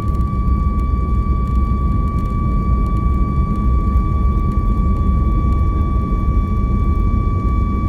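Jet airliner engines heard from inside the passenger cabin: a steady, loud low rumble with a constant high-pitched whine over it.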